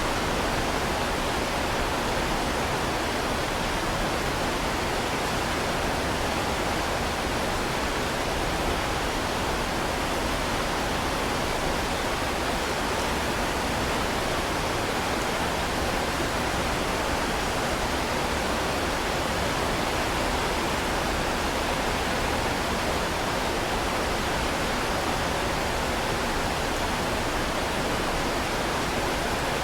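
Heavy rain falling steadily, a dense, even hiss with no single drops or thunder standing out.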